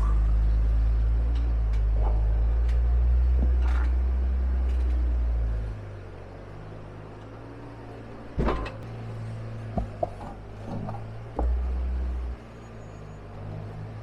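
Jeep crawling over trail rocks: a heavy low rumble for the first six seconds, then quieter, with a few sharp knocks and clunks of tires and running gear on rock and another short burst of rumble near the end.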